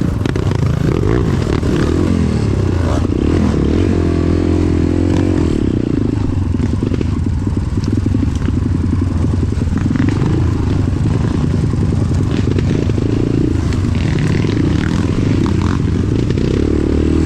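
Motorcycle engine running under way on a rough trail, its note rising and falling with the throttle, with rattling and scraping along the way.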